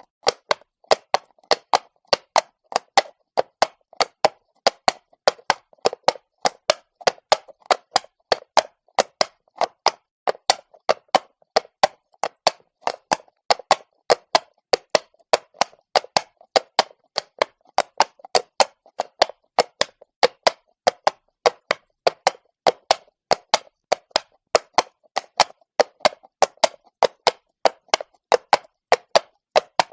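A horse's shod hooves walking on cobblestones: a steady run of sharp clops, about three to four a second in the uneven four-beat rhythm of a walk.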